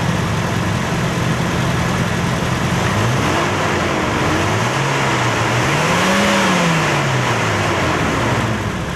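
Toyota Kijang Innova's four-cylinder VVT-i petrol engine idling high, then revved three times with a smooth rise and fall in pitch, the third rev the highest. It picks up cleanly without stumbling now that the leaking injector and throttle-body connectors have been refitted.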